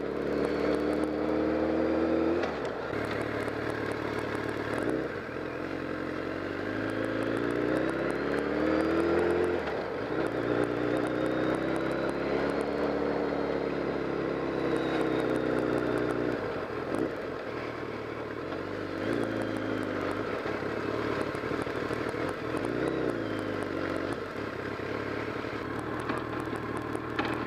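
BMW K1200R motorcycle's inline-four engine running under way, its note rising and then dropping back several times as the rider works the throttle and gears, with wind rushing past.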